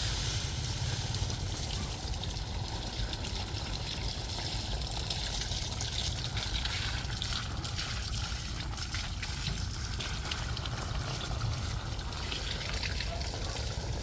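Water trickling and pouring steadily, with small splashes, as when produce is being rinsed off.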